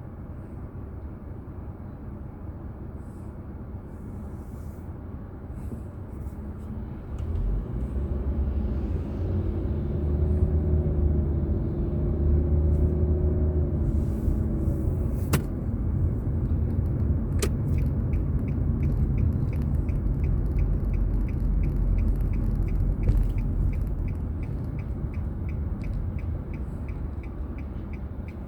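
Car driving, with a steady low rumble from road and engine that grows louder about a quarter of the way in. In the second half an even ticking runs at about three a second.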